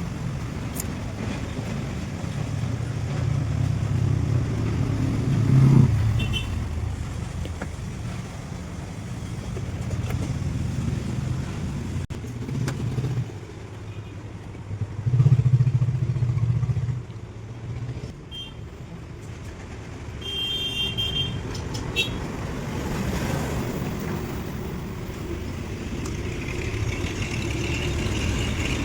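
Motor vehicle engine rumble that swells louder twice, with a few brief high-pitched chirps or beeps about two-thirds of the way through.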